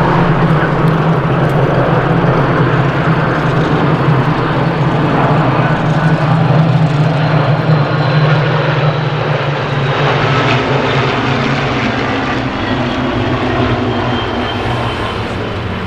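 Piston-engined warbird formation of Spitfires and Hurricanes, their Rolls-Royce Merlin V12 engines making a loud, steady drone as they fly over. The drone eases off slightly over the last few seconds.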